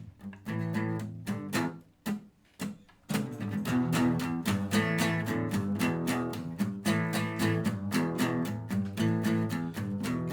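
Guitar strumming chords: a few strokes with short pauses, then a steady strummed rhythm from about three seconds in, the instrumental intro of a song before the singing comes in.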